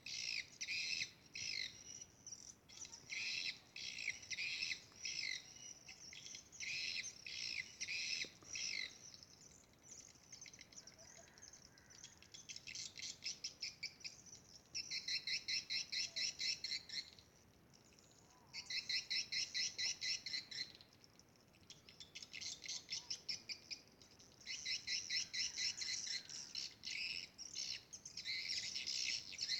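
Swiftlets twittering: rapid trains of high, evenly spaced chirps, each lasting a second or two, repeating with short gaps.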